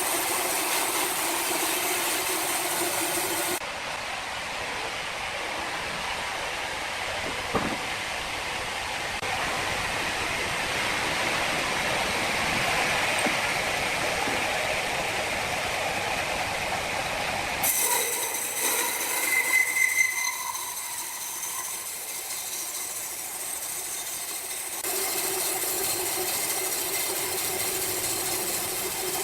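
Sawmill machinery running, in several joined clips. A steady machine hum gives way to a longer, noisier stretch, and a brief high squeal comes about twenty seconds in before the hum returns.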